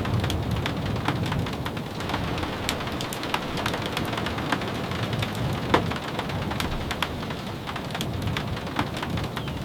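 Steady rain falling, with scattered sharp taps of drops and a low rumble underneath.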